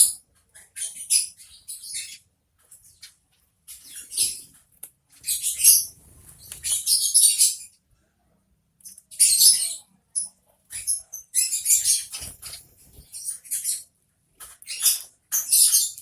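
Small birds chirping in repeated clusters of quick, high, squeaky notes, with short pauses between the clusters.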